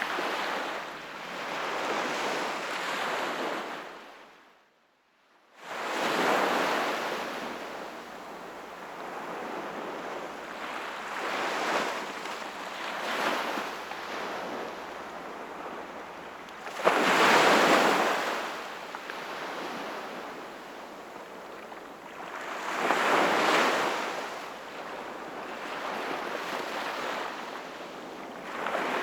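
Sea waves washing in and breaking on the shore in slow swells, the loudest about seventeen seconds in. The sound drops briefly to near silence about five seconds in.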